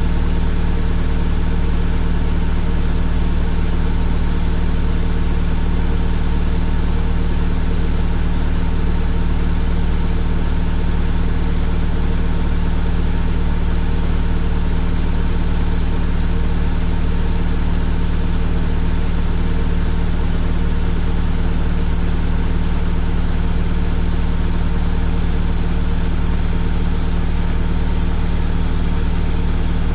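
Washing machine running with a steady, unchanging low hum and whirr, a few faint steady tones riding over it.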